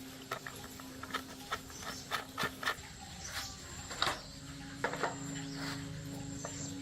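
Irregular light clicks and taps, a few a second, over a faint steady hum.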